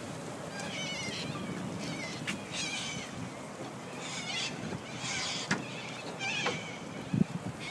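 Birds calling, a run of short calls repeating about once a second, with a few sharp clicks between them.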